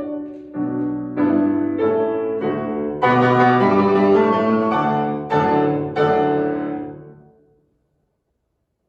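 Piano playing a classical piece to its close: a series of loud struck chords, the last one ringing and dying away about seven and a half seconds in.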